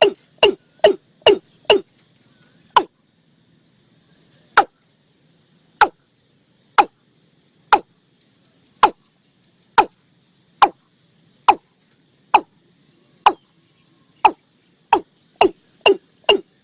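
Watercock calling: a series of short, sharp, downward-sweeping notes. About two a second at first, then spaced roughly a second apart, then quickening again near the end. Faint insects buzz high in the background.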